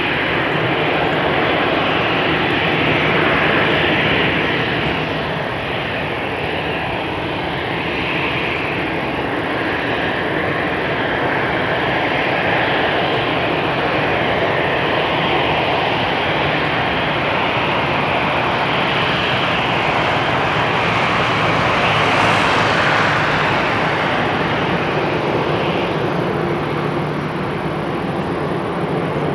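Jet engines of an Airbus A320-200 airliner running, a loud, steady rush and whine that swells slightly a few seconds in and again about 22 seconds in.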